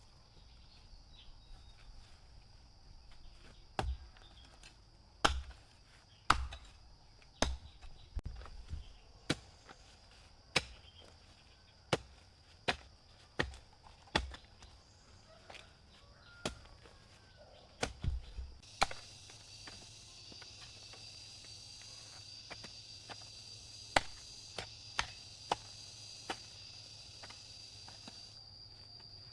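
Repeated chopping strikes of a blade, roughly one a second, the earlier ones landing with a heavy thud, over a steady high insect drone. A louder, wider insect buzz joins about two-thirds of the way through.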